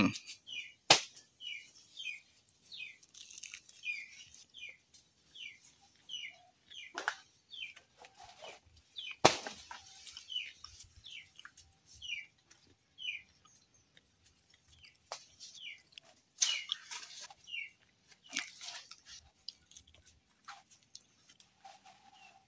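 A bird calling over and over, short falling chirps about twice a second, thinning out after the first half. A few sharp cracks and rustles of banana leaves being handled cut in, the loudest about nine seconds in.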